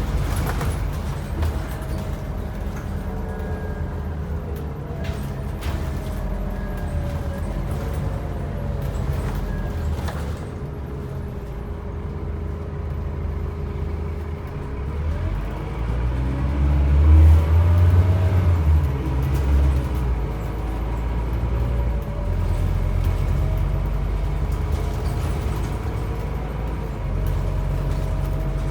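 Scania N270UB OmniCity bus running on the road: steady engine rumble with a thin drivetrain whine that glides up and down as the bus changes speed. The engine swells louder about 16 to 20 seconds in, as under heavier acceleration.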